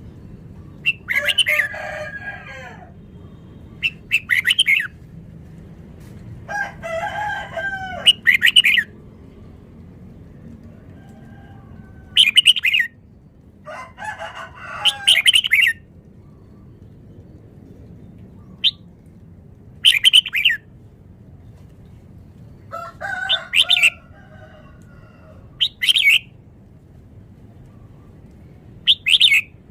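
Red-whiskered bulbul singing: short, loud, rapid whistled phrases repeated about a dozen times, with pauses of a second or two between them.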